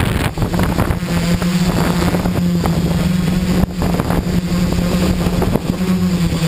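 XAircraft X650 V4 quadcopter's electric motors and propellers humming steadily in flight, heard close up from its onboard camera. Gusty wind buffets the microphone.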